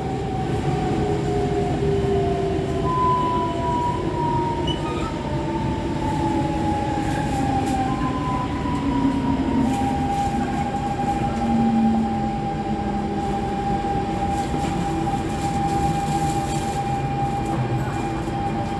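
SMRT C651 metro train running, heard from inside the car: a steady rumble of wheels on track under several thin whining tones from its traction motors and GTO inverter drive, which slide slowly down in pitch.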